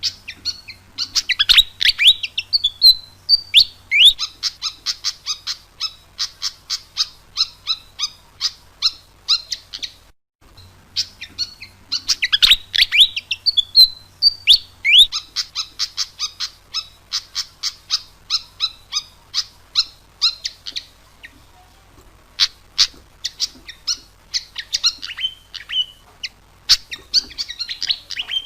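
Malaysian pied fantail singing: a quick falling, slurred phrase, then a fast run of sharp high chirps. The song repeats and breaks off for a moment about ten seconds in.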